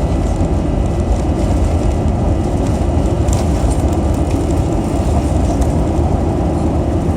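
Airbus A321 cabin during takeoff: a loud, steady rumble from the jet engines and the airframe, deepest at the bottom, with a faint steady whine above it.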